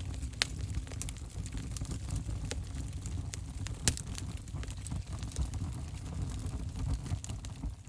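Wood fire crackling in a fireplace: a steady low rumble of flames with scattered sharp pops, two of them louder, about half a second in and about four seconds in.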